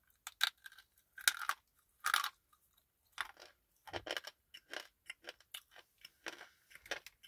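Person biting into and chewing a thin slate pencil, a stick of baked slate clay eaten as a snack: a run of sharp, irregular crunches, the loudest in the first couple of seconds.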